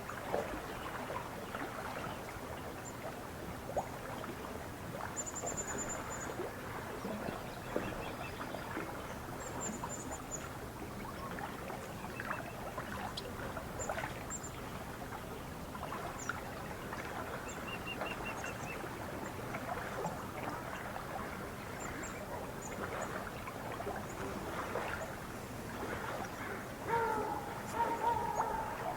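Lake water lapping and trickling at the shore with small irregular splashes, and thin high bird chirps now and then. Near the end, waterfowl start honking.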